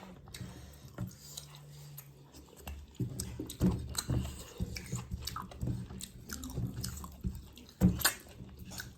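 Close-miked chewing of mutton and rice, with repeated wet mouth clicks and smacks; a sharp click a little before the end is the loudest.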